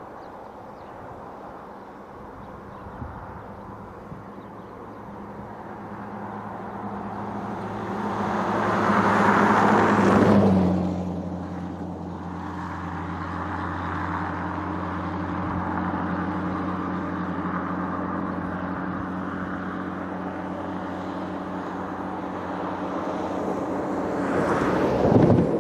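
Diesel freight locomotive passing close by. Its engine note builds to a peak about ten seconds in, then drops in pitch as it goes past, and the train keeps running steadily after it, with another brief swell near the end.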